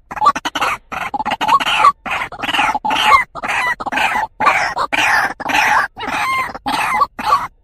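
White-breasted waterhen (truwok, ruak-ruak) calling: a fast, unbroken series of harsh, hooked call notes, about three a second. It is a recorded call used as a lure for male truwok.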